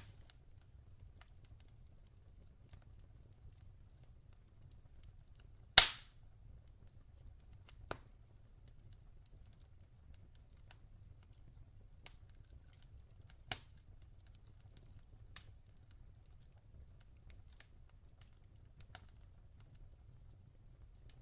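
Log fire crackling: scattered sharp pops and faint ticks from burning wood over a low steady rumble, the loudest pop about six seconds in.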